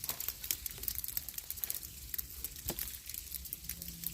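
Dense, irregular crackling and ticking of rain pattering down, with a wood fire crackling close by.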